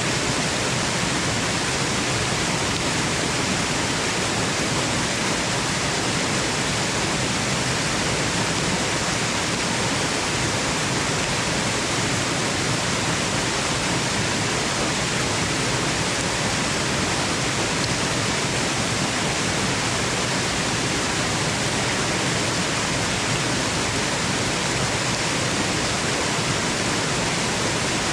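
Waterfall rushing, played as white noise for sleep: a steady, unbroken hiss that does not change.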